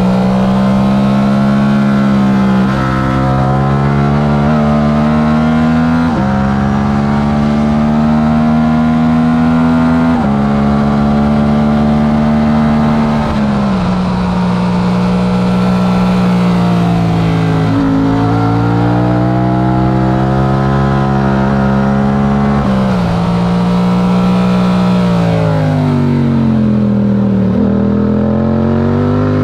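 Yamaha R7's 689 cc parallel-twin engine running hard under race conditions. Its pitch holds, then jumps suddenly several times as gears change, and near the end it falls and climbs again.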